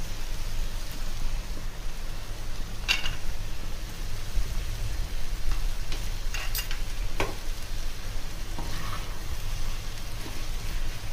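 Food sizzling as it fries in a pan, over a low steady hum, with a few short clicks and scrapes of a utensil against the pan as it is stirred.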